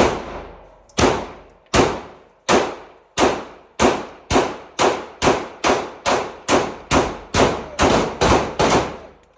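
Pistol fired in a long string of about seventeen shots, each one echoing as it fades, the pace quickening from under a second apart to two or three shots a second.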